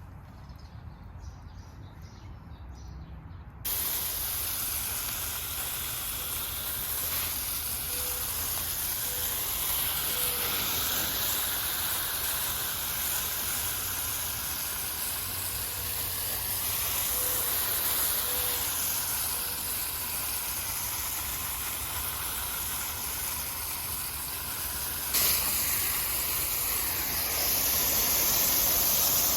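Water spraying from a garden hose onto plants: a steady hiss that starts suddenly about four seconds in and gets louder near the end.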